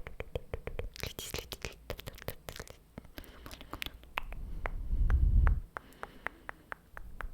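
ASMR mouth sounds close to the microphone: a quick run of many sharp wet mouth clicks. A louder low rumble rises and falls about four to five and a half seconds in.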